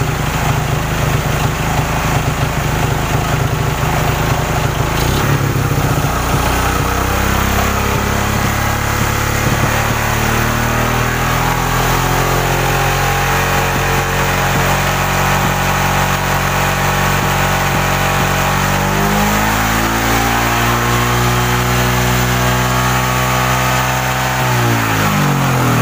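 Suzuki Shogun 125's single-cylinder four-stroke engine running hot at idle. About two-thirds of the way through its speed rises, and near the end it falls away steeply as the engine dies: losing spark when hot, which the mechanic puts down to a weak pulser (ignition pickup coil).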